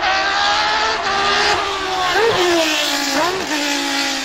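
Historic Formula One race car engine running hard as the car passes, its note sliding down in pitch, with two quick throttle blips about two and three seconds in.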